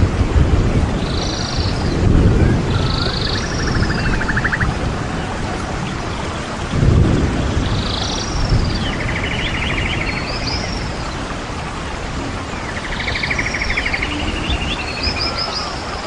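A bird calling several times, each phrase a rising note followed by a buzzy rattle, over a steady hiss of rain. Gusts of wind buffet the microphone about two seconds in and again about seven seconds in.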